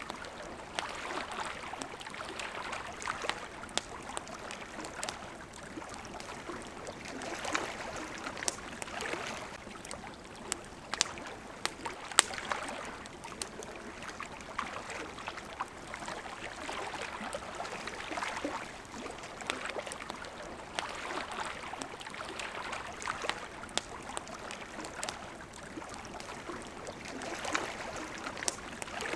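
Water lapping at the shore in gentle swells every couple of seconds, with the sharp, irregular pops and crackles of a burning campfire, one louder pop about twelve seconds in.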